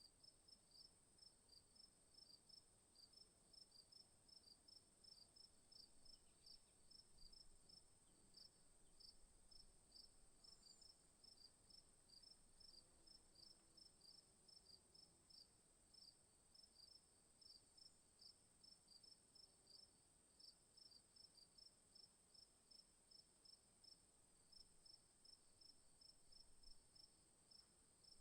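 Faint insect chorus: a steady high-pitched whine with a cricket-like chirp repeating about three times a second.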